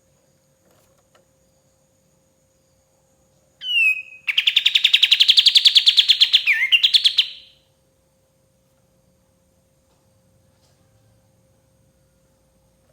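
Bulbul (kapas tembak) song: a short falling whistle, then a fast, even chattering trill lasting about three seconds.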